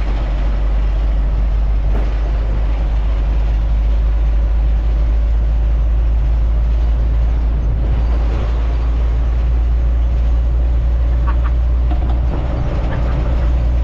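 Truck engine and road noise: a steady, loud low rumble.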